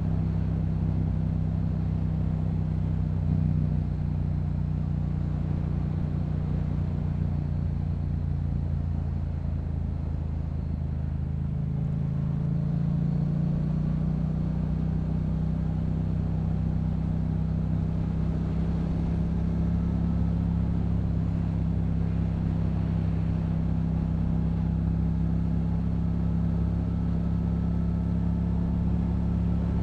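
Yamaha MT-07's parallel-twin engine running through a Yoshimura exhaust at a steady cruise. The engine note sags slightly about ten seconds in, then picks up and holds steady again.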